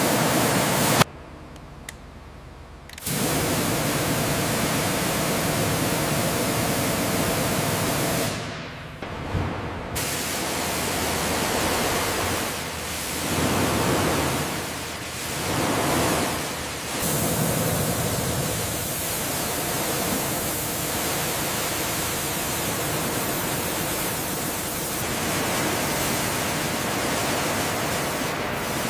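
High-pressure water spray from a pressure washer: a steady hiss that cuts out briefly twice early on and swells and dips in the middle as the spray moves.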